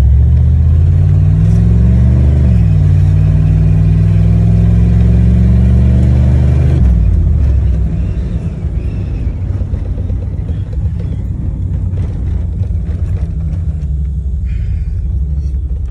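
Chevy truck engine: its speed rises about a second in, holds steady for several seconds, then drops back near the middle to a lower, rougher running.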